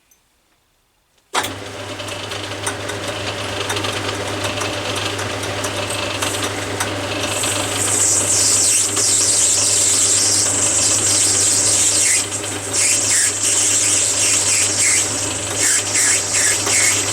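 Atlas 10-inch metal lathe switched on about a second in, running with a steady motor hum. From about halfway a high, wavering hiss and squeal builds: the parting blade cutting into brass bar.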